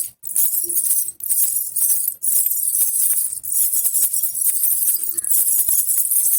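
A baby rattle with small jingle bells (jhunjhuna) being shaken steadily, giving a bright, high jingling. There are three brief breaks about a second apart in the first few seconds.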